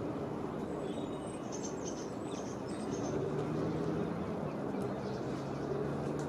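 Steady low hum of distant traffic, with a few quick high-pitched chirps from a small bird between about one and three seconds in.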